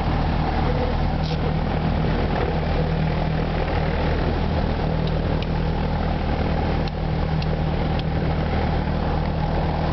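Single-engine light aircraft's engine and propeller running at a steady, even drone.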